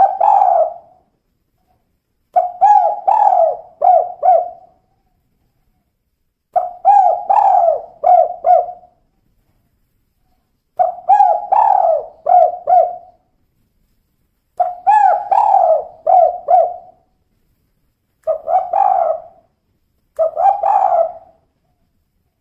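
Female spotted dove (tekukur) cooing: seven phrases of three to four low coos each, one phrase starting about every four seconds.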